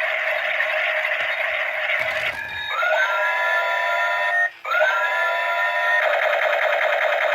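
Electronic toy sound effects from a small tinny speaker: a harsh buzzing, then twice a beeping tone that swoops up and holds, with a short break between, before the buzzing returns.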